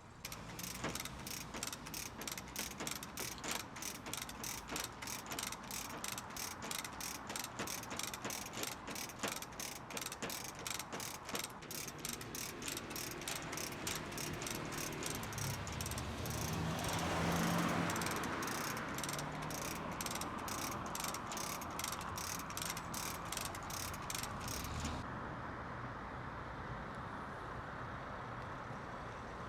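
Hand chain hoist's ratchet pawl clicking steadily, about two or three clicks a second, as the load is hauled up; the clicking stops shortly before the end. Partway through there is a louder rushing swell with a low hum.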